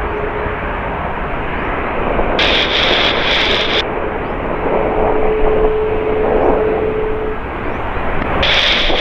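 Jet airliner engines running, a loud steady rumble with a steady hum for a couple of seconds past the middle.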